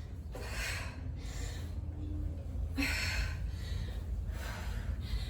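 A woman breathing hard from exertion during squats and lunges, with about three loud, hissy breaths over a steady low rumble.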